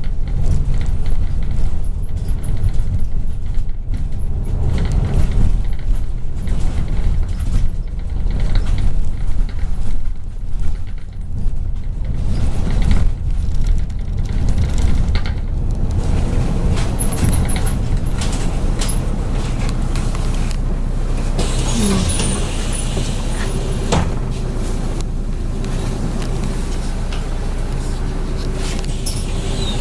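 Inside a MAZ 103.562 bus on the move: a heavy, uneven engine and road rumble that grows steadier about halfway through. About two-thirds of the way in comes a short hiss of air from the bus's air system, then a steady hum runs on.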